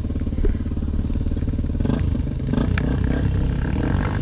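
Vehicle engine running at low revs under load, its pitch and rhythm shifting about two seconds in as the throttle changes, with scattered clicks and knocks.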